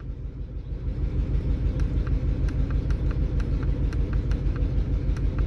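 2003 Chevrolet Trailblazer's inline-six engine idling rough with a steady low rumble and faint regular ticking: the engine is misfiring, which the mechanic traces to failing ignition coils.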